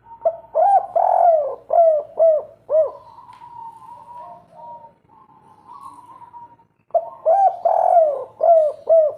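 Spotted dove cooing its 'kuk 3' song: two phrases about six and a half seconds apart, each a quick run of arching coos. A fainter, drawn-out tone sounds between the phrases.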